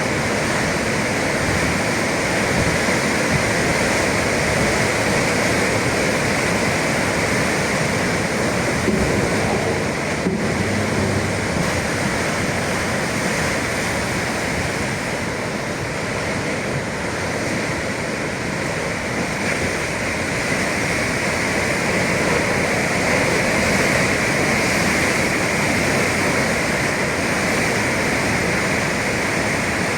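Sea waves breaking in a steady, continuous rush of surf.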